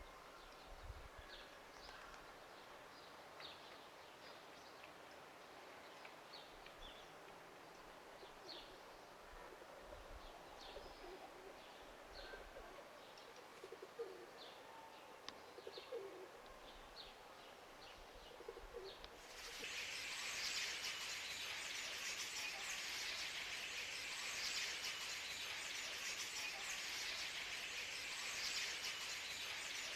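Small birds chirping faintly and sporadically, with a few lower calls among them. About two-thirds of the way through, the sound switches abruptly to a louder, dense, high-pitched hiss that stays steady to the end.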